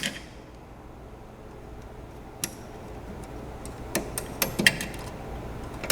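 A handful of sharp, irregularly spaced clicks and ticks from hand tools and small metal parts, as the safety seal on the fire extinguisher bottle's pin is cut and cleared away.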